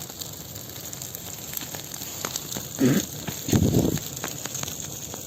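Large bonfire crackling, with many small sharp pops throughout. About three seconds in come two louder, low, short rushes of sound, the second lasting about half a second.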